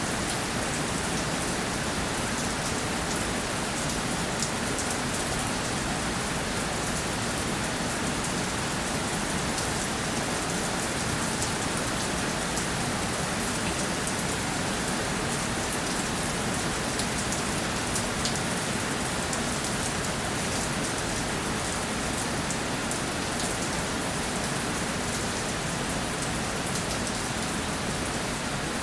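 Steady rainfall, a dense even hiss with fine drop ticks spattering on surfaces.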